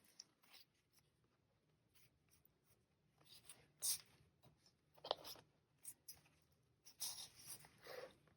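Near silence broken by a few faint, short sounds of paper being handled and trimmed: soft rustles and scratchy snips, the clearest about four and five seconds in and a small cluster near the end.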